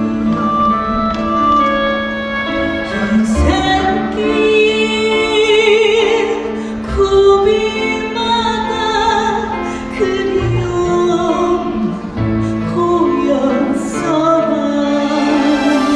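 A woman singing a trot song with vibrato over a karaoke-style backing track.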